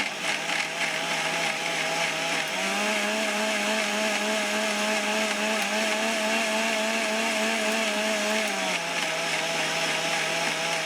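Electric blender running steadily as it blends a lassi of curd and ice; its motor pitch rises about two and a half seconds in and drops back near the end.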